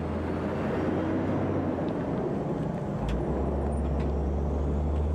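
A long multi-trailer road train truck running on the road, its engine and tyres making a steady low drone.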